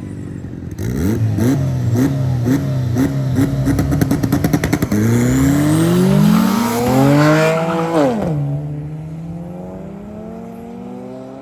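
Car engine blipped hard at the start line, revs spiking about twice a second with a rapid crackle, then launching: the pitch climbs through the gear, drops at an upshift about eight seconds in, and climbs again as the car pulls away.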